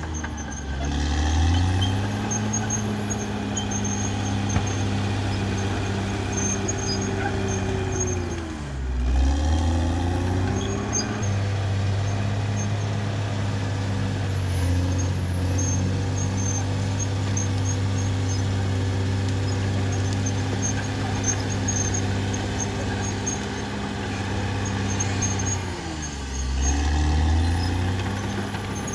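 Caterpillar D6R XL bulldozer's diesel engine running, its revs dropping and climbing back twice, about nine seconds in and again near the end, with a thin high whine over it.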